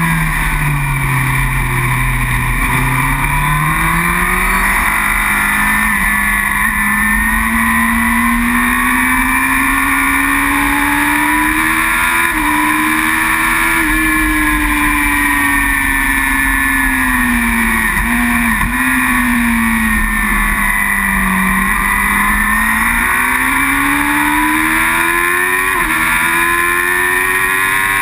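Racing superbike engine running hard under race load, its pitch falling, climbing slowly, falling again and climbing once more, with a few brief breaks in the tone.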